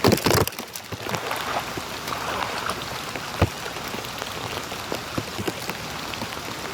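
Rain falling steadily, a constant hiss dotted with the small ticks of single drops. There is a brief louder rush of noise right at the start and one sharp tap about three and a half seconds in.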